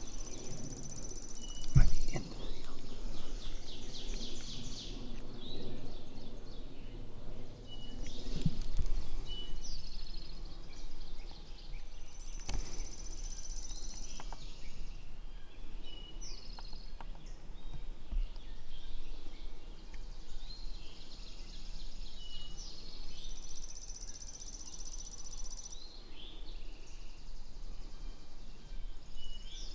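Songbirds singing: a high, thin song of a held note running into a trill, repeated about every ten seconds, with short high chirps between. A loud thump about two seconds in and rustling around eight to nine seconds.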